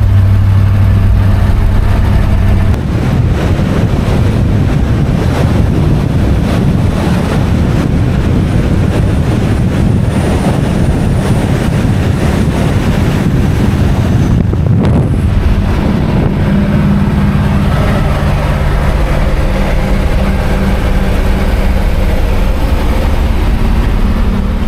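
1938 Ford truck's flathead V8 running, a steady low hum that turns to a rougher, noisier rumble about three seconds in, with wind noise mixed in.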